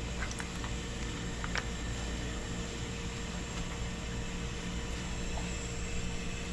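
Steady mechanical hum and hiss, with a few faint clicks in the first two seconds.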